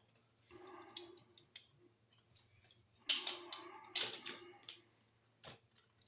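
Irregular sharp clicks and short scraping clatters from a wall receptacle and its wires being handled, with the loudest clusters about three and four seconds in.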